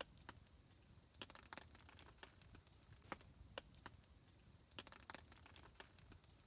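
Near silence broken by faint, scattered short crackles and ticks, a few a second.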